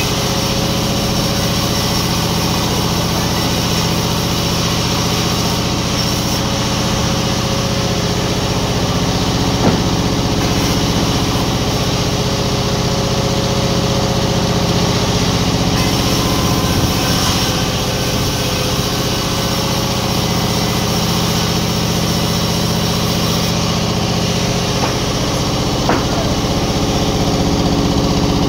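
Sawmill machinery running at a steady pitch: a constant motor drone with a continuous hiss and a few faint clicks.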